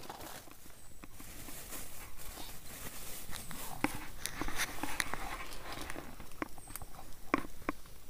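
Irregular light crackling and rustling, a scatter of small sharp clicks that is busiest in the middle and has a couple of sharper snaps near the end.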